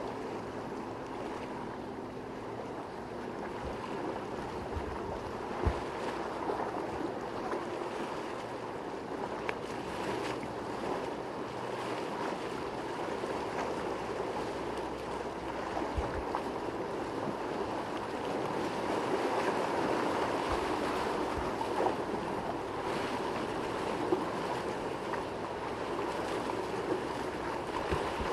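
Steady rush of rough water and surf in a boat inlet, with boat engines running under it and a few short low thumps of wind hitting the microphone.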